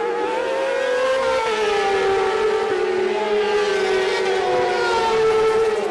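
Racing sport bike engines running at high revs on track, several engine notes overlapping. The pitch dips about a second and a half in and then holds high and steady.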